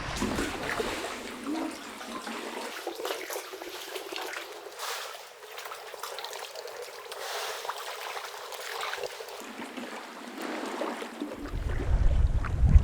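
Sea water lapping and trickling among rocks, with small splashes and crackling drips. A low rumble starts near the end.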